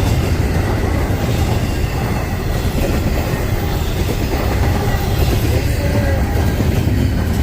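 Freight train rolling by: a steady, heavy rumble of the cars and wheels on the rails.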